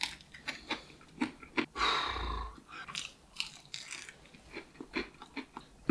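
Close-up chewing and biting on coated fried chicken wings: a run of short, sharp crunches and mouth clicks, with one longer hissing noise about two seconds in.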